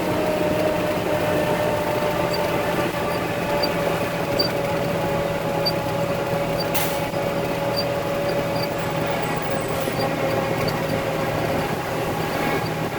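Concrete mixer truck's diesel engine running steadily under way, with a steady whine over the engine note that sags slightly in pitch. Faint light ticks come about once a second, and there is a single short click about seven seconds in.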